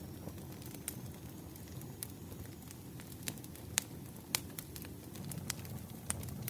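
Crackling wood fire: a steady low rumble with sharp pops and snaps scattered irregularly, roughly one a second, the loudest pair a little past the middle.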